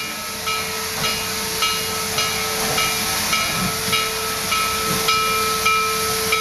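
Steam locomotive standing with steam hissing steadily, a steady tone running under it and a short ringing note repeating about twice a second.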